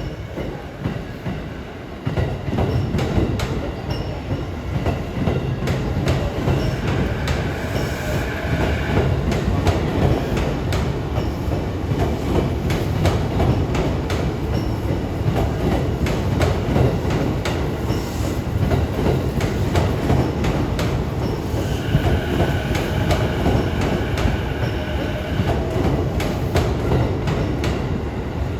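E653 series electric multiple unit running along the rails, its wheels clattering over rail joints. Twice a high steady squeal from the wheels rises over the running noise.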